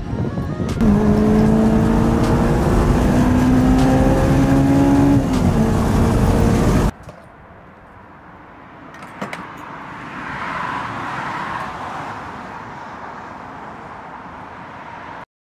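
A sports car engine pulls under acceleration, its pitch climbing steadily for about five seconds. About seven seconds in it cuts off abruptly to a much quieter low background.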